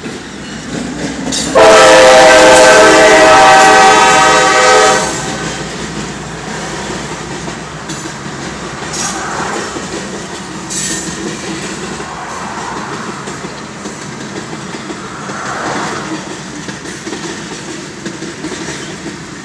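CSX freight locomotive's horn sounding one loud chord for about three seconds, a couple of seconds in, heard from inside a car. After it the freight cars roll past the crossing with a steady rumble.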